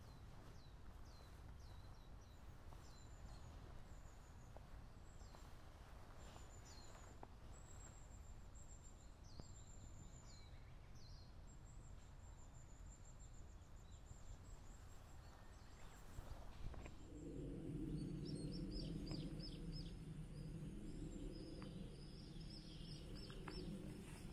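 Birds calling outdoors: short, high, downward-sweeping calls about once a second, faint over quiet background noise. About two-thirds of the way through, a steady low hum starts and becomes the loudest sound, with quicker high chirps above it.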